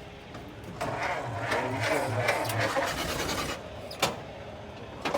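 Ford Model T's four-cylinder engine being turned over by its electric starter, with a pulsing rhythm of about three beats a second. The cranking stops about three and a half seconds in, a sharp click follows, and cranking starts again near the end. The engine is cranked while the crew has found no spark.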